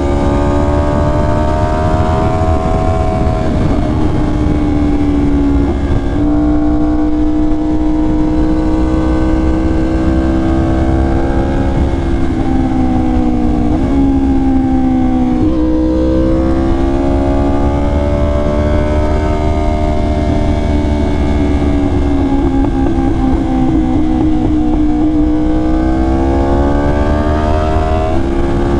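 2020 Yamaha R1's crossplane inline-four through an SC Project exhaust, riding under load with the engine note rising and falling and changing abruptly several times as it shifts gears. Wind rumble runs underneath.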